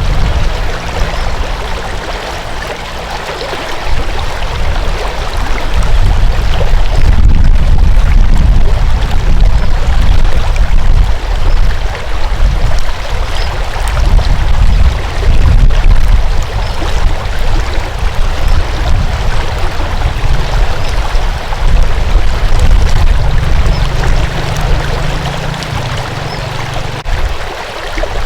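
Flowing water rushing steadily, with a deep low rumble that swells and ebbs.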